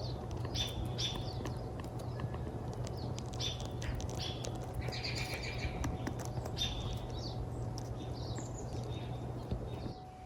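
Forest birds singing: short chirping phrases repeated every second or two, over a steady low rumble and scattered light clicks.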